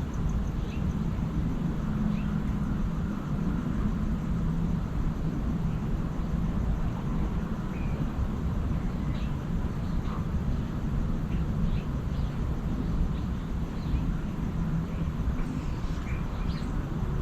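Birds giving scattered short chirps, more of them near the end, over a steady low rumble.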